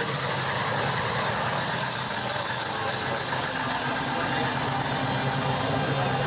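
Classic car engine idling steadily, with a steady high hiss over it.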